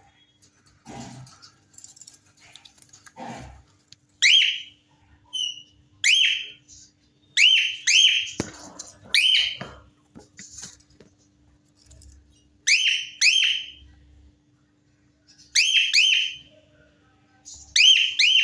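Cockatiel giving short, shrill chirping calls, mostly in quick pairs or threes, repeated every second or two from about four seconds in. A couple of faint low knocks come before the calling starts.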